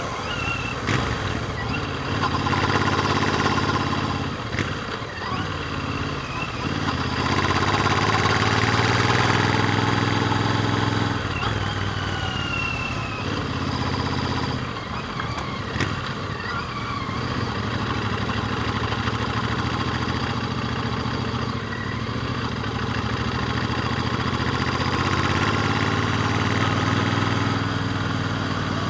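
Royal Enfield Interceptor 650's parallel-twin engine running through its stock exhaust on the move. Its pitch rises and falls several times as the throttle is opened and eased off.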